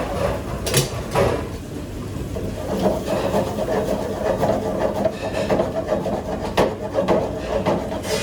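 Kitchen clean-up: steady rubbing and scraping, as of scrubbing or wiping, broken by a few sharp knocks of wood or utensils.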